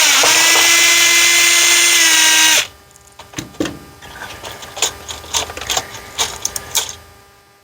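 Electric screwdriver whining at a steady pitch as it backs a Phillips screw out of an instrument cluster's back housing. It stops suddenly about two and a half seconds in, followed by light clicks and rattles of the screw and plastic being handled.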